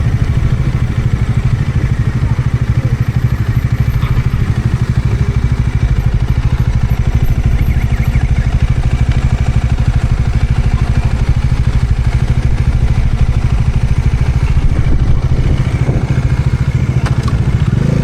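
Bajaj Dominar 400's single-cylinder engine running steadily while the motorcycle is ridden at an even speed.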